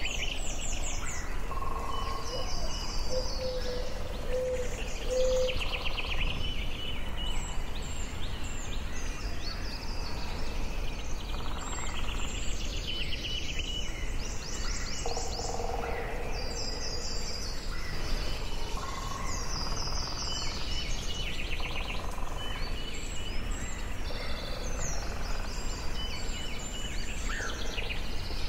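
Several birds singing in a forest, with short repeated trilling phrases every few seconds and a few lower whistled notes, over a steady low background hiss.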